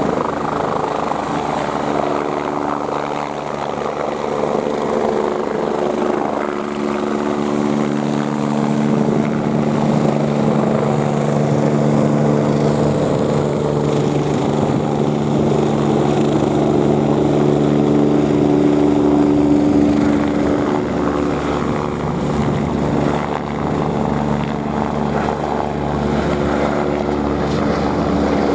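Eurocopter EC145 twin-turbine helicopter running steadily, its engines and rotor holding a constant pitch with a fast rotor chop underneath.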